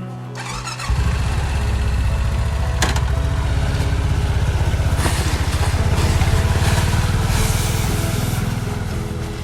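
A small vehicle's engine running, coming in about a second in, growing a little louder in the middle and easing off near the end.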